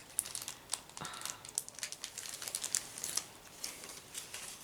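Crinkling and rustling of a pocket letter and its packaging being handled by hand: a steady scatter of small crackles and clicks.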